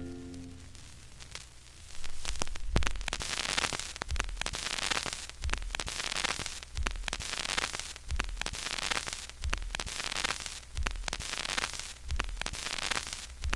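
Vinyl record's run-out groove after the song ends: the stylus plays surface hiss and crackle, with a soft low thump repeating about every 1.3 seconds, once per turn of a 45 rpm single. The last note of the song dies away at the start.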